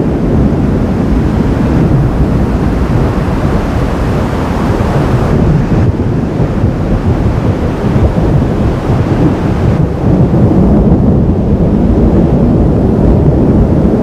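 Thunder rumbling low and continuously through a thunderstorm, mixed with wind buffeting the microphone.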